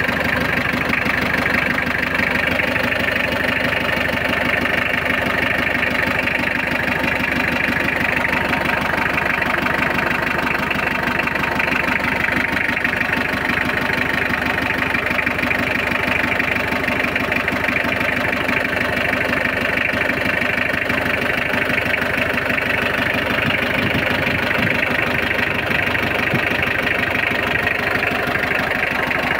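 Mitsubishi L300's 4D56 diesel engine idling steadily.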